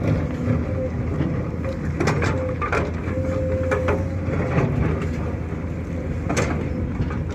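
Excavator's diesel engine running steadily under load while digging, with an on-and-off whine and a few sharp clanks and knocks of the bucket.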